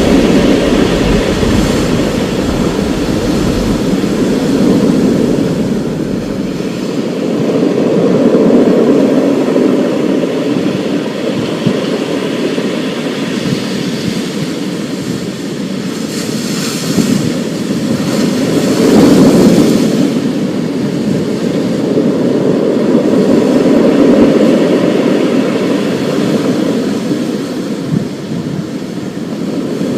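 Thunderstorm: a steady rushing noise of rain and wind that swells and eases in slow waves. A low thunder rumble at the start dies away over the first few seconds.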